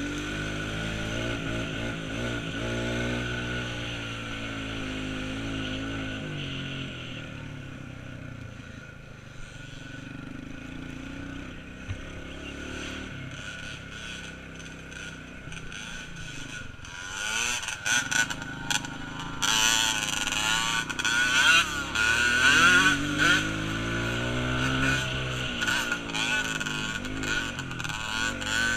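Small off-road vehicle engine revving up and easing off over and over as it rides around, then getting louder and rougher about two-thirds of the way in as it comes close.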